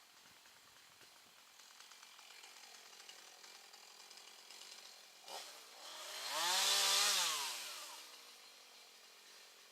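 Chainsaw revved once: its pitch climbs and falls back over about two seconds past the middle, just after a short sharp knock, with a faint steady background before and after.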